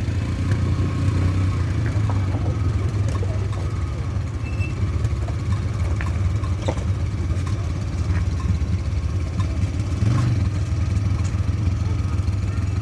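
Suzuki APV engine running steadily with a low hum, with a few light knocks and rattles and a brief swell in level near the end.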